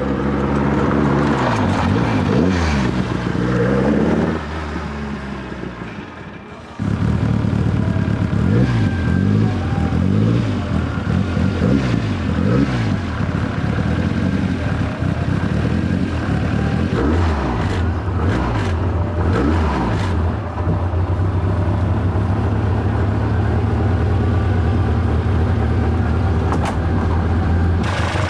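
Alpine A110 rallycross car's Gordini 1800cc 16-valve four-cylinder engine, revving as the car drives up. About seven seconds in it comes back sharply louder and is given a string of quick throttle blips, then settles to a steady idle.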